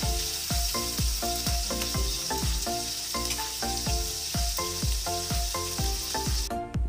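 Chicken livers sizzling as they fry in oil in a nonstick pan, stirred with a spoon at first. Background music with a steady beat plays over it. The sizzling cuts off suddenly just before the end.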